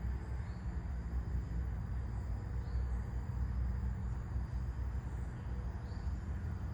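Low wind rumble with faint, short bird chirps recurring every two to three seconds and a faint, steady high insect drone.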